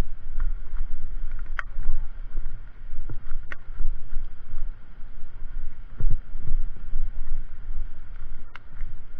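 Wind buffeting the microphone: a loud, uneven low rumble, with a few sharp clicks.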